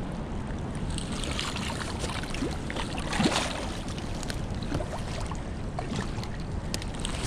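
Steady rush of wind and moving river water around a fishing boat, with small clicks and a short louder rustle about three seconds in.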